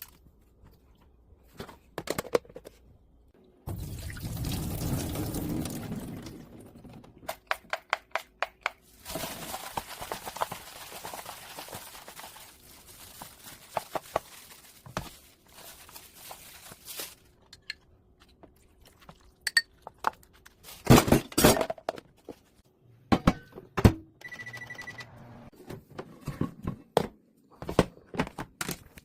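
Kitchen preparation sounds: water poured into a plastic container, with knocks and clatter of the container and utensils. The loudest knocks come about two-thirds of the way in, followed by a short steady beep.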